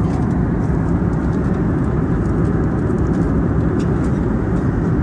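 Steady cabin noise inside an Airbus A320neo in flight: an even, loud rush of airflow and engine sound with no change in level.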